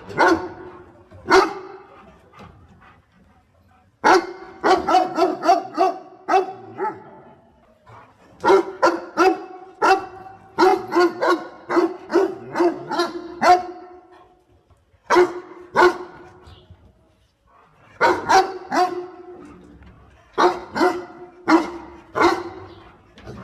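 A dog barking in quick runs of several barks each, with pauses of a second or two between the runs and a few single barks in between.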